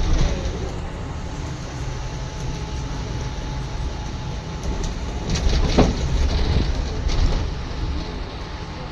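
Interior of a moving city bus: the steady low rumble of engine and road, with a few brief knocks and rattles of the body about five to seven seconds in.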